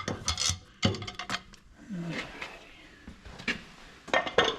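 Metal clanks and clatters as a bolted side access cover is worked loose and lifted off the engine block of a 1928 Allis-Chalmers 20-35. There are bursts of sharp clatter near the start and again near the end, with quieter handling in between.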